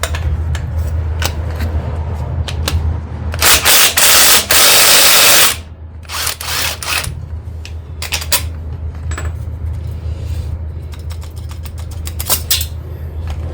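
A power tool runs loudly for about two seconds, near the middle, while bolts are being removed. Sharp metallic clicks and knocks of tools on bolts come before and after it, over a steady low hum.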